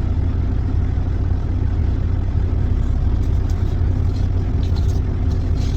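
Steady low drone of a semi truck's engine heard from inside the cab, with a faint even rush over it.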